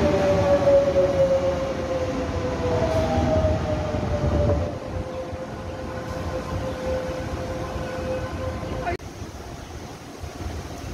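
Taiwan Railway electric train running past close by and pulling away: wheels rumble on the rails under a motor whine that falls slowly in pitch as it fades. About nine seconds in the sound cuts abruptly to quieter platform noise.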